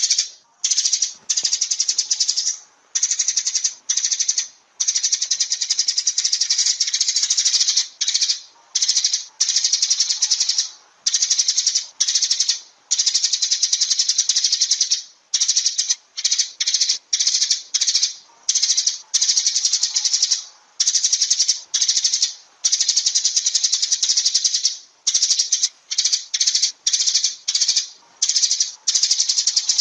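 Sparrows chirping in a fast, dense chatter, coming in bouts of one to three seconds broken by brief gaps.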